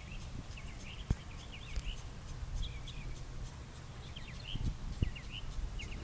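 Birds chirping in many short, quick calls, over a steady low rumble, with a single click about a second in.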